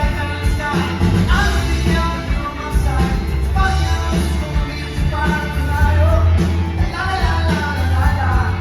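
Live rock band playing loud, heavy bass and drums under a melody line.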